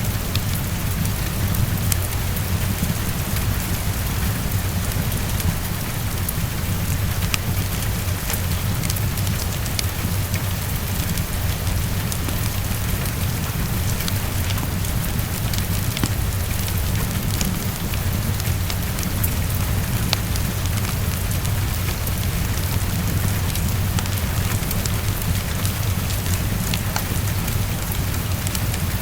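Steady heavy rain, an even hiss with a low rumble underneath, dotted with scattered sharp ticks and crackles from the rain and a fireplace.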